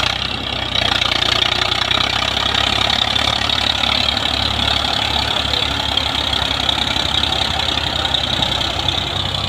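Tractor engine running steadily and loudly, with a rough mechanical clatter over a low hum.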